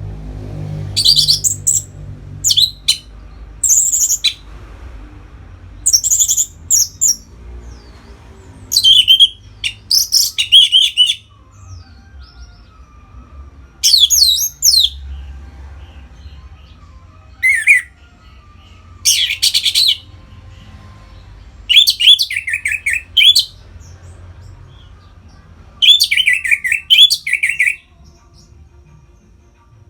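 Orange-headed thrush singing its loud, open 'ngeplong' song: about ten short phrases of quick, varied high notes, with pauses of a second or two between them.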